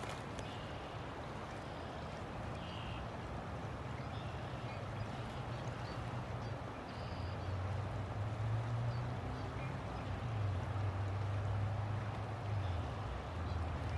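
River water flowing steadily, with a low hum underneath that grows louder about seven seconds in.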